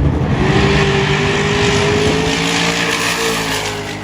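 Drag race car accelerating down the strip: a loud engine whose pitch climbs slowly, with the sound starting to fade near the end.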